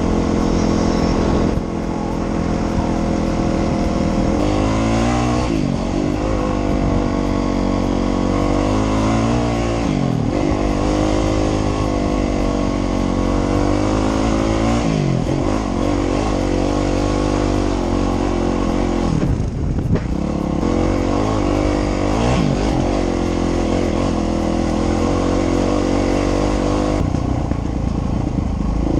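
Dirt bike engine running under load on a trail, its pitch dropping and climbing back every few seconds as the rider backs off and opens the throttle.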